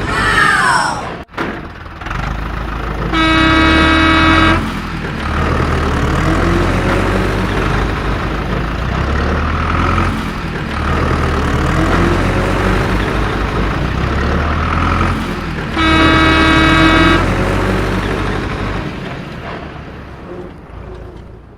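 Cartoon vehicle sound effects: a low engine rumble throughout, broken by two long horn honks of about a second and a half each, some twelve seconds apart. A short falling cry is heard at the very start.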